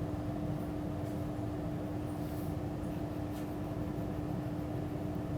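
Steady mechanical hum with a constant low tone, like a fan or appliance running. A few faint, brief scratches of a crayon stroking across paper can be heard now and then.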